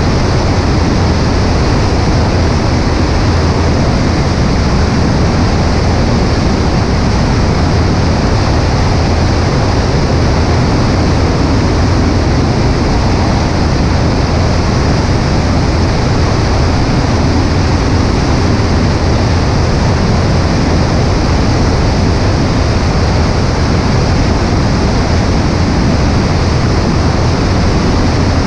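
Cessna 140A in flight: the engine and propeller running steadily at a constant setting, heard under a heavy rush of wind over a wing-mounted camera.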